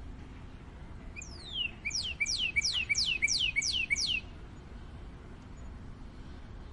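Northern cardinal singing one phrase of about eight fast, clear whistles, each sliding steeply down from high to low. The phrase starts about a second in and lasts some three seconds.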